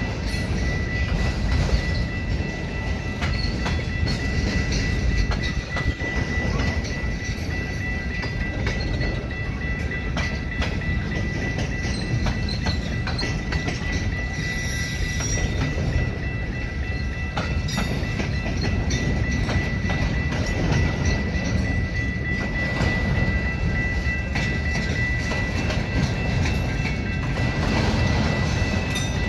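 Freight cars, mostly autoracks, rolling past on the rails, their wheels clicking over rail joints, as the train is backed up through the yard. A steady high tone sounds throughout.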